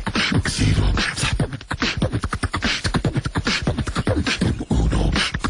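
Rapid vocal percussion in the manner of beatboxing: a dense, unbroken run of clicks and pops over low bass thumps, many strokes a second.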